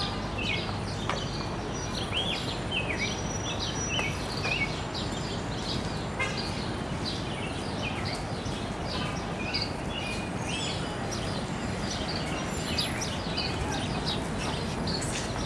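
Songbirds chirping again and again with short, falling calls, over a steady background hum of outdoor noise.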